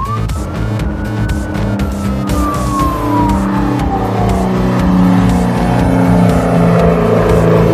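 Emergency-vehicle siren sound effect: one wail that rises quickly in the first second, then falls slowly and fades by about four and a half seconds, over background music and a car engine sound that grows louder toward the end.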